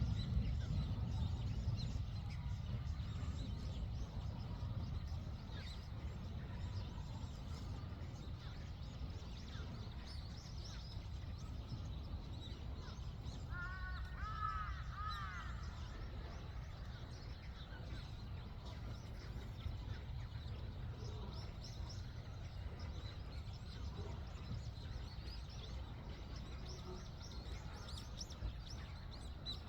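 Outdoor ambience of a steady low rumble with faint, scattered bird chirps, and a quick run of short arched bird calls about halfway through.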